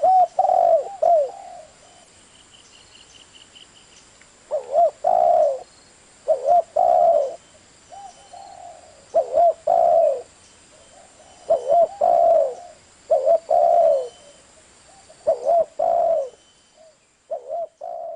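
Spotted dove cooing: short phrases of two or three low, curving coo notes, repeated every second and a half to two seconds, with one longer pause a couple of seconds in.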